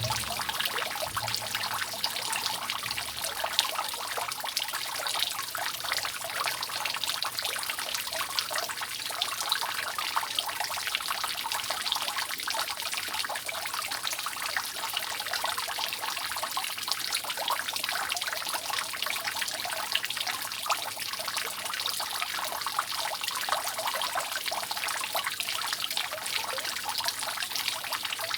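Water dripping and trickling steadily off a roof: a dense, unbroken patter of many drops at once.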